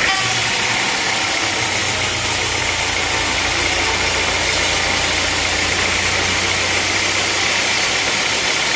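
Sawmill machinery running steadily: a low engine hum under a loud, even noise.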